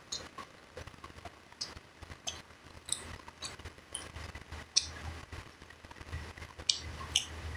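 A person chewing a mouthful of food, giving irregular short wet clicks and lip smacks.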